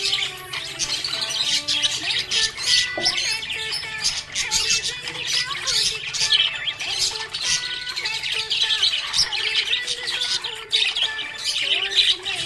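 Budgies chirping and squawking in a fast, continuous chatter, with background music of held notes underneath.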